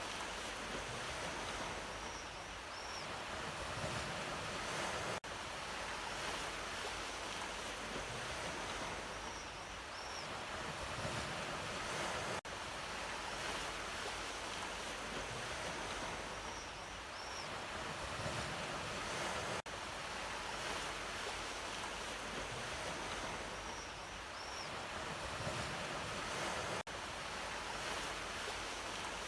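Sea waves washing on a shore, a steady rushing surf that swells and eases. The same stretch of about seven seconds repeats as a loop, with a brief dip in level at each join.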